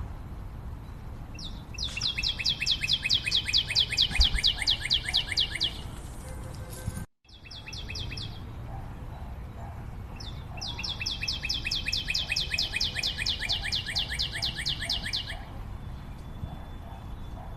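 A bird sings twice, each song a fast run of sharp, evenly repeated high notes, about seven a second, lasting some four seconds.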